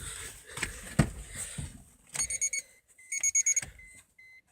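A few knocks and clicks, then a car's electronic warning chime: two quick trills of rapid beeps, then steady single beeps about two and a half a second.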